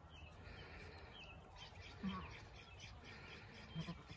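Small birds chirping faintly over a low background rumble, with two brief low thumps, one about two seconds in and one near the end.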